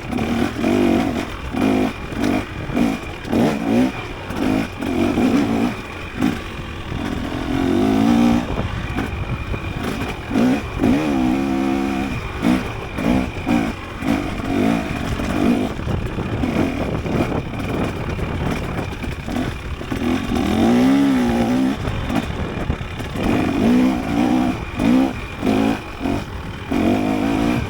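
Dirt bike engine revving up and down over and over as the rider works the throttle on a rough trail, its pitch climbing and dropping every second or two.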